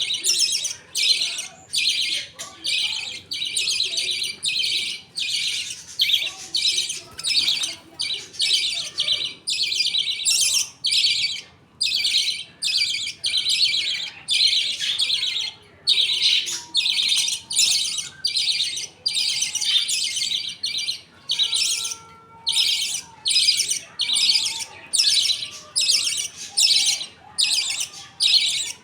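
Budgies calling in a steady run of raspy, high-pitched calls, about two a second, with fainter whistled chirps beneath.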